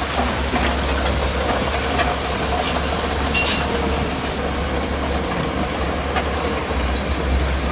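Heavy crawler machine, most likely a bulldozer, running steadily, with its diesel engine rumbling under scattered metallic clanks and squeaks from its steel tracks.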